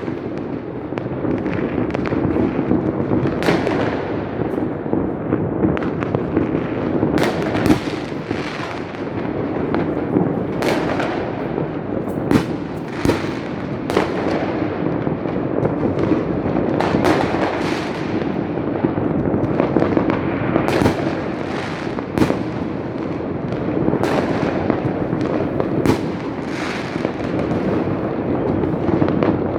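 Fireworks going off all over a city: a dense, continuous rumble of distant bursts and crackling, with many sharper bangs standing out about every second or two.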